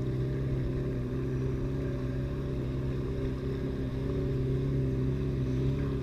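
Vauxhall VXR car exhaust with the engine running steadily at constant revs, an even low note with no rises or falls.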